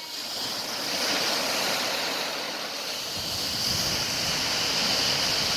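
Lake Superior waves breaking, a steady rush of surf that swells about a second in and again near the end.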